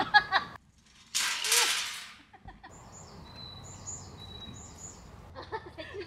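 Small songbirds singing short, high, repeated chirps. About a second in there is a loud rush of noise lasting about a second, and it is the loudest thing heard.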